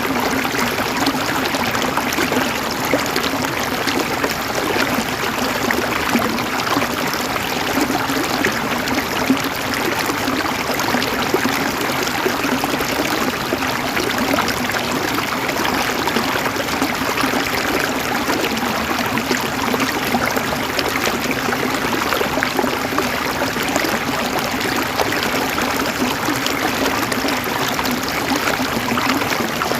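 Flowing water, running steadily with fine splashing.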